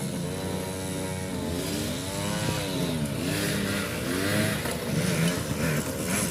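Small vintage dirt bikes racing, the Honda EZ90 Cub and the Kawasaki KE100 two-stroke, their engines revving, with the pitch rising and falling as they speed up, ease off and pass.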